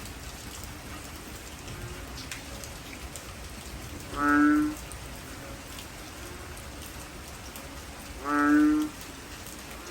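Heavy rain falling steadily, with a short, low, steady-pitched call sounding twice, about four seconds apart, louder than the rain.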